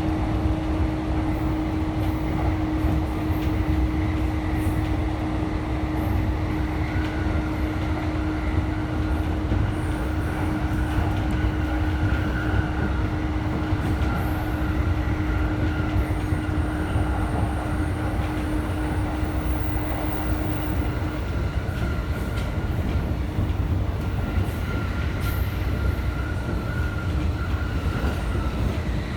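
JR Ueno-Tokyo Line electric commuter train running at speed, heard from inside the car: a steady low rumble of wheels on rail. A steady motor hum fades out about two-thirds of the way through, and a fainter high whine comes in after several seconds.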